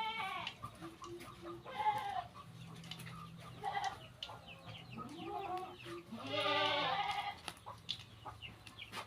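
Chickens clucking in a string of short calls, with one longer, louder call about six and a half seconds in.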